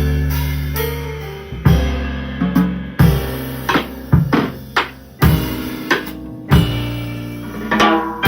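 Jazz piano trio playing: piano and double bass sustaining low notes, with a drum kit adding irregular drum and cymbal accents.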